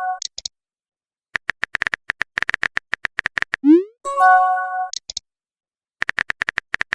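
Phone messaging sound effects: a run of rapid keyboard-tap clicks, a short rising swoosh, then a chiming message tone of several steady notes followed by two high blips. The tapping clicks start again near the end.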